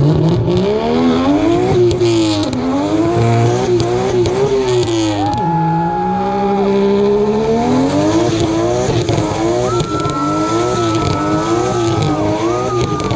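A car's engine revving hard during a burnout: the revs climb at the start, then bounce up and down over and over, and are held high for about a second near the middle. The tyres squeal through the second half.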